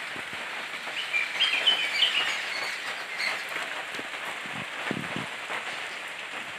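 Birds chirping in short calls over a steady background hiss, with a couple of soft thumps about five seconds in.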